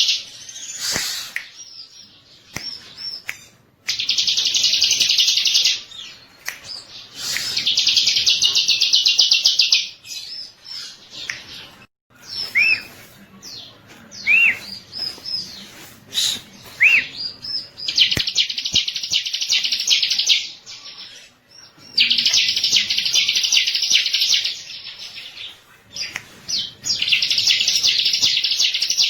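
Bar-winged prinia (ciblek) singing: loud, rapid, high-pitched trills lasting two to four seconds each, repeated several times, with short single chirps between the trills.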